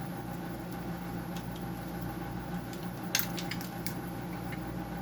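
A few light metallic clicks and clinks of small metal parts being handled, bunched together about three seconds in, over a steady background hum.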